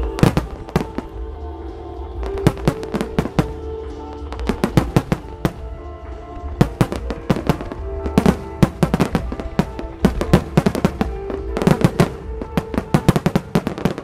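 Starmine fireworks display: volleys of shells bursting in rapid clusters of sharp bangs, one salvo after another, over music played along with the show.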